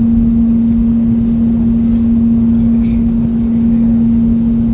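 Steady cabin noise inside an Airbus A320neo on the ground before takeoff: a loud low rumble with a constant hum.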